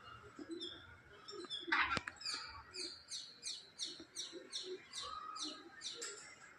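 A bird chirping a long run of high, quickly falling chirps, about three a second, with softer chirps before it and one sharp click about two seconds in.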